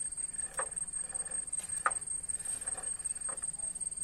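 A steady high-pitched insect trill runs unbroken, with a few faint short clicks and knocks scattered through it.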